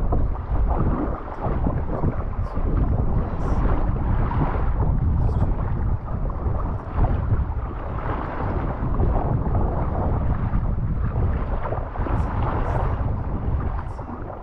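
Wind buffeting the microphone in a steady low rumble, over the splash and lap of water around a paddled kayak.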